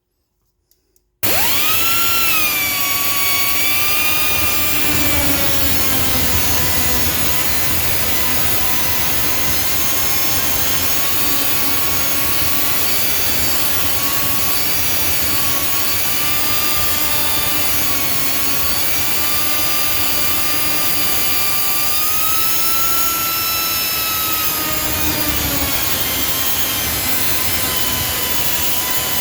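A high-pitched cut-off wheel tool starts about a second in and runs steadily, its whine sagging and wavering slightly as it cuts open the stud holes in a multi-layer steel head gasket.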